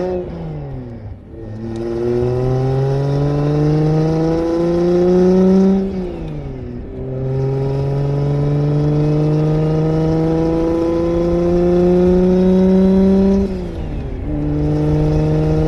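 Single-turbo BMW N54 inline-six accelerating through the gears. Its pitch climbs steadily, falls sharply at an upshift about six seconds in, climbs again, and drops at a second upshift near the end before settling into a steady run.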